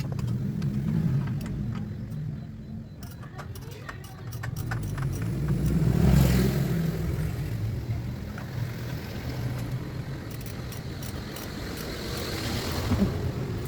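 Honda Civic Genio's engine running with a steady low rumble that swells briefly about six seconds in, with scattered light metallic clicks over it.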